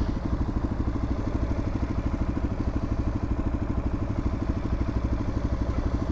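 Suzuki DR-Z400's single-cylinder four-stroke engine running steadily, its beat even and its pitch unchanging.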